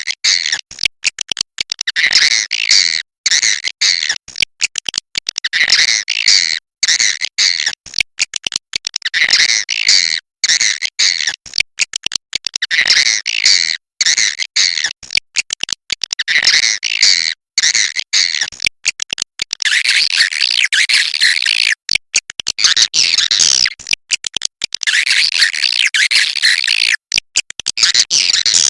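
Swiftlets twittering: a dense, continuous stream of high, rapid chirps and chattering calls, broken by many brief sudden gaps. It is a 'walet goa' (cave swiftlet) call recording of the kind played to lure swiftlets into nesting houses.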